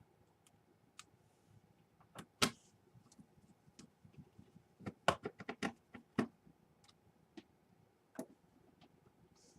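Scattered sharp clicks and taps of a Dell Inspiron 11 laptop's parts being handled during reassembly, with a quick run of about seven clicks around five seconds in.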